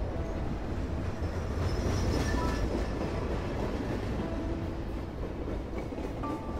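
Train running, heard from inside the carriage: a steady low rumble with a few brief, faint high squeals from the wheels.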